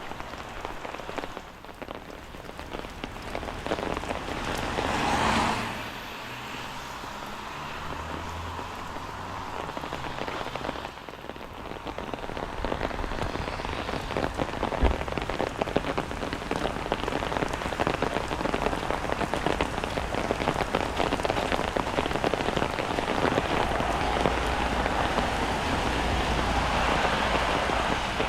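Steady rain falling, with many close drop hits throughout and a louder rushing swell about five seconds in.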